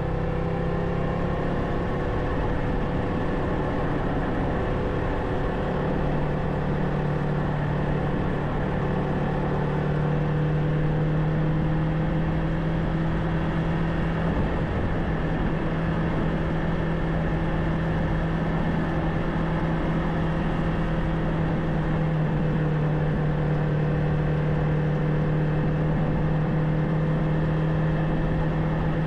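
Kawasaki Ninja 500's parallel-twin engine running at a steady cruise, over a constant rush of wind noise. The engine note climbs a little about six seconds in, then holds steady.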